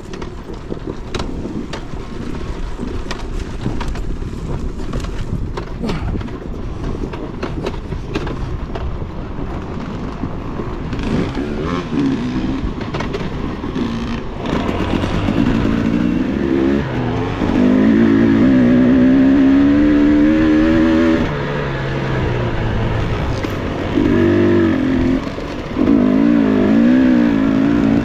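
Dirt bike engine on a rocky enduro trail, revving up and down in uneven bursts that grow louder in the second half. Many sharp knocks and rattles from the bike hitting rocks come through in the first half.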